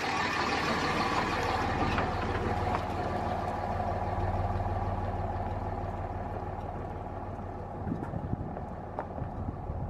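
A vehicle engine running with a steady low hum under a wide rush of noise that slowly fades away.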